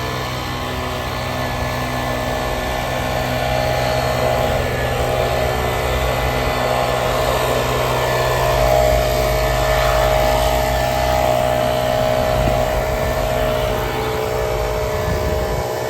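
Leaf blower running steadily, its sound swelling a little louder through the middle and easing off slightly near the end.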